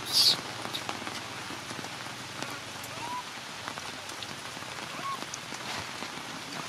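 Steady rain falling on leaves and ground, with scattered drips. A short, loud, high-pitched sound right at the start, and a couple of faint short calls about three and five seconds in.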